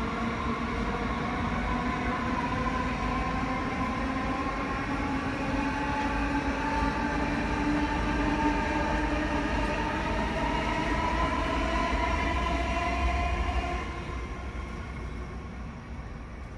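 An electric train running through a station: a whine of several tones rising slowly in pitch over low rumble, which drops away about fourteen seconds in.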